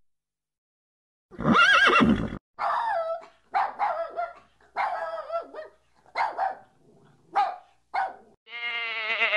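Animal calls: one loud call with gliding pitch, then about seven short calls in quick succession, and a longer wavering call near the end.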